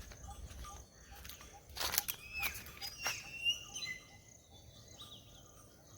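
Wild birds chirping and calling, with short whistled notes that slide up and down in the middle, over a steady high insect trill. A brief noisy burst comes about two seconds in.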